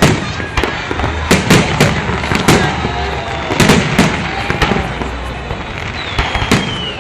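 Aerial fireworks shells of a salute bursting one after another, about a dozen sharp bangs, with a falling whistle near the end.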